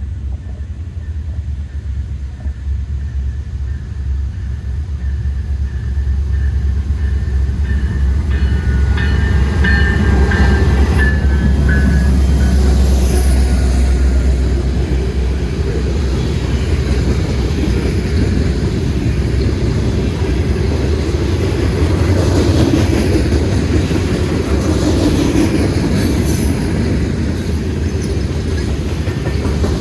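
Norfolk Southern freight train passing: the diesel locomotives rumble deep and low as the railcars roll by with steady wheel clatter, growing louder over the first ten seconds and then holding.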